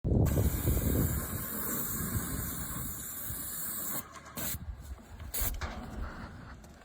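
Paint sprayer spraying with a steady hiss that cuts off about four seconds in, followed by two short bursts of spray.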